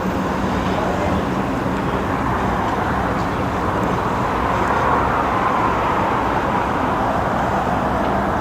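Steady vehicle noise with a low hum, and a faint whine that rises and then falls around the middle.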